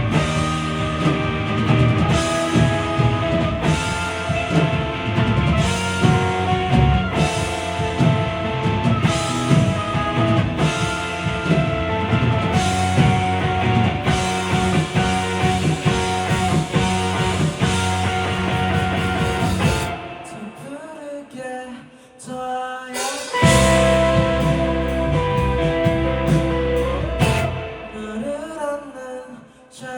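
Live rock band playing with drums, electric guitar, bass and singing. About two-thirds of the way through the full band drops out for a few seconds, leaving a thinner, quieter passage, then comes back in, and the sound falls away again near the end.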